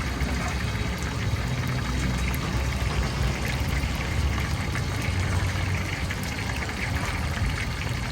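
Chicken deep-frying in hot oil: a steady sizzle with small pops, over a low hum.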